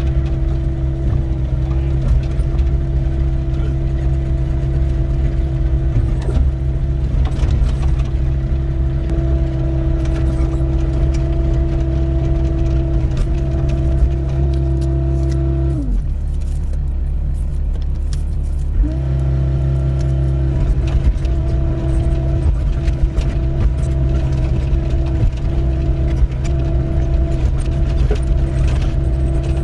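Doosan 55W wheeled excavator running steadily under digging load, with a whining tone over the engine and scattered knocks and scrapes of the bucket in stony ground. A little past halfway the whining tone sags and drops away for about three seconds, then comes back.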